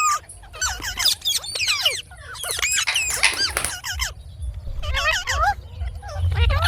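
Indian ringneck parakeet chattering: a rapid run of squeaky chirps and whistled notes that swoop up and down in pitch, broken by a couple of short pauses.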